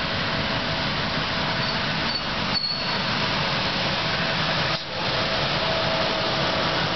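Budd Silverliner II electric multiple-unit commuter train arriving and rolling slowly past the platform: a steady rumble and hiss of wheels and running gear with a faint steady hum, a short faint high squeal about two and a half seconds in, and two brief dips in the sound.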